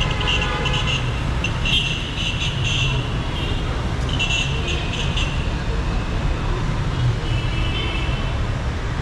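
Busy city street traffic: a steady rumble of car, bus and scooter engines, broken by several car horn honks, each about a second long.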